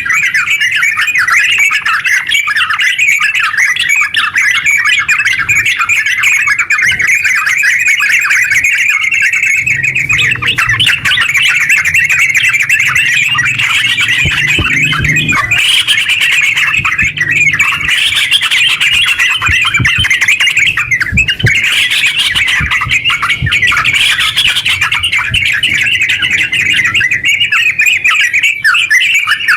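Yellow-vented bulbuls (terucuk) singing a rapid, unbroken chattering song (the 'ngeropel' style), dense chirps running on without pause, a little louder in the second half.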